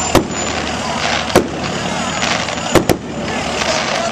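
Aerial fireworks shells bursting with sharp bangs: one just after the start, one about a second and a half in, and two in quick succession near the end.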